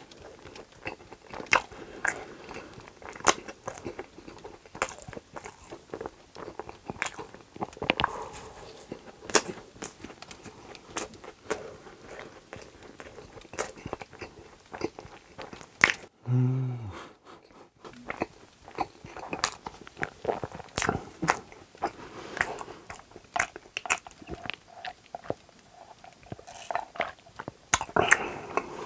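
Close-miked mouth sounds of chewing soft, jam-filled donut: wet smacks, lip clicks and squishing bites. About halfway there is a short low hum, and near the end a sip through a drinking straw.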